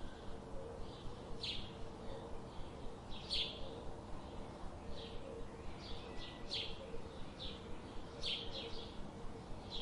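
Small birds chirping: short, high chirps every second or so, some in quick pairs, over a steady background hiss and a faint low hum.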